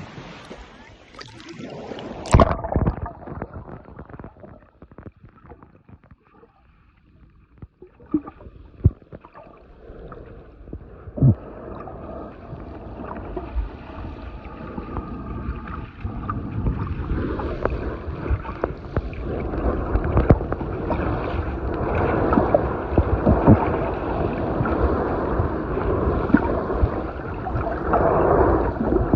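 Muffled underwater sound from a camera in shallow sea water: water sloshing and gurgling with scattered clicks and knocks. A sharp splash-like hit about two seconds in, after which the sound turns dull, and the water noise grows louder in the second half.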